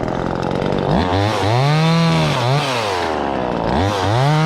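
Two-stroke chainsaw revving up and down twice, then held at high, steady revs near the end.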